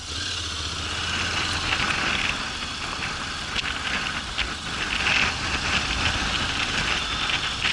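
Honda NC750X DCT motorcycle's parallel-twin engine running, under a steady hiss with a few short clicks.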